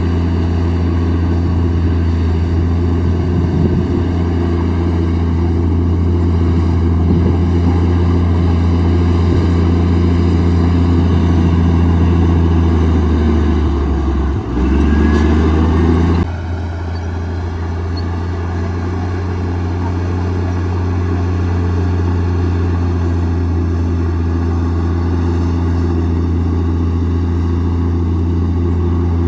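Komatsu D58E bulldozer's diesel engine running steadily under load. About halfway through, the engine speed dips briefly and climbs back, and the sound then changes abruptly.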